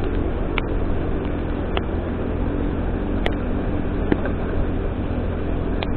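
Vehicle riding along a road: a steady engine and road rumble under a wash of noise, with sharp little ticks every second or so.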